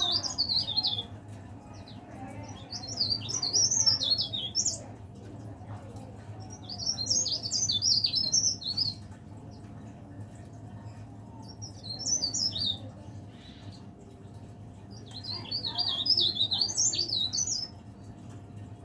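Cikrak daun (leaf warbler) singing in bursts of rapid, jumbled high twittering, five phrases of one to two and a half seconds each, a few seconds apart, over a steady low hum.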